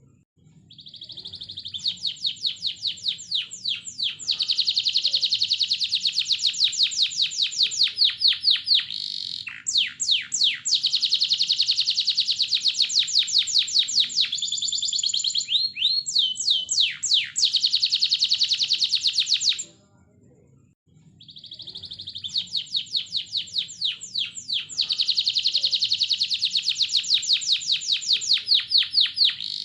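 Canary singing a long song of fast trills and rolls, each phrase a rapid run of repeated notes. The song breaks off briefly about two-thirds of the way through, then starts again.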